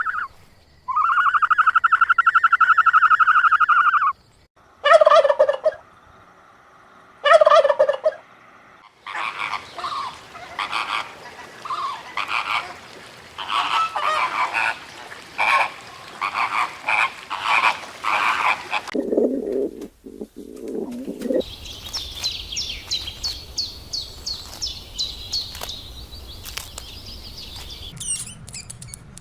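A string of separate animal and bird calls. First one long call held for about three seconds, then two short lower calls, then a long run of quick, rapid-fire fowl calls. Low calls follow, and high, quick chirping closes it.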